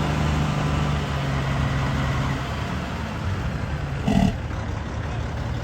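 2001 Peterbilt 378 truck's diesel engine idling steadily, with a brief sharp sound about four seconds in.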